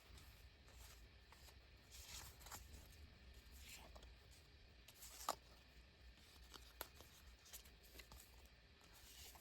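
Faint rustling of paper sticker sheets being handled and shuffled, with a few soft clicks and taps, the sharpest about five seconds in.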